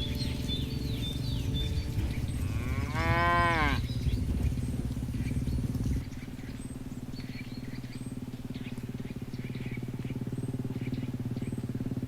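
A cow mooing once, about three seconds in: a single call of a bit over a second that rises and then falls in pitch.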